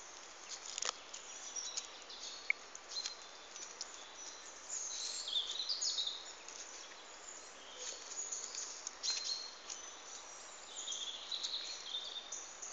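Small birds chirping and calling, short high notes coming again and again, over light outdoor background noise.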